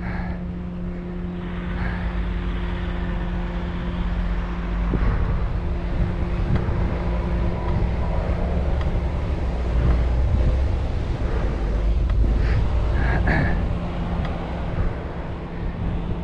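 Riding noise on a moving bicycle: a low rumble of wind and road that swells through the middle and eases off near the end, over a steady hum, with traffic sounds mixed in.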